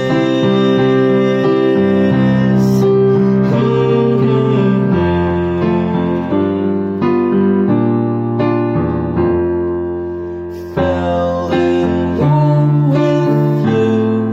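Song music led by piano or electric keyboard: held chords changing every second or two, with a melody line above.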